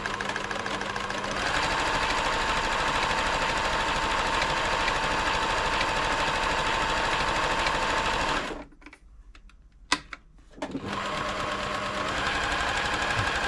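Pfaff-built Silver 1139 domestic sewing machine running steadily while stitching a decorative V pattern. It stops after about eight seconds, a single click sounds, and it starts sewing again about two seconds later.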